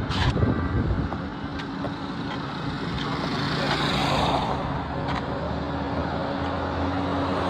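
Road traffic noise: motor vehicle engines running, with a low steady engine hum that grows stronger in the second half and a few sharp clicks.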